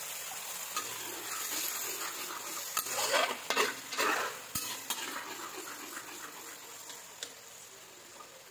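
Ground spice paste with a little added water sizzling and bubbling in a wok, fading toward the end. A spatula scrapes and knocks against the wok as it is stirred, most loudly for a couple of seconds around the middle.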